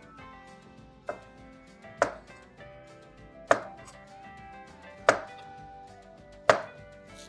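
Kitchen knife dicing raw potatoes on a board: five sharp chops, irregularly spaced about a second to a second and a half apart.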